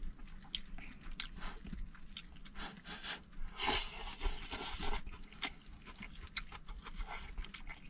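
Close-up eating sounds: chewing with light clicks and rustles, likely chopsticks against a bowl.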